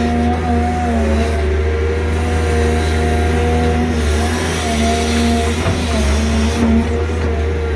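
Hydraulic excavator's six-cylinder diesel engine running hard at full throttle under digging load: a steady deep drone with a wavering whine above it.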